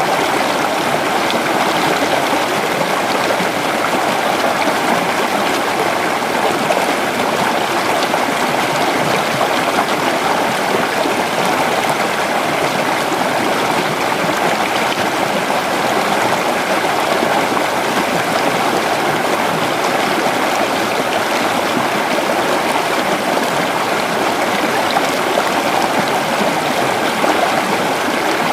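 Creek water running steadily over rocks, a continuous babbling and gurgling rush.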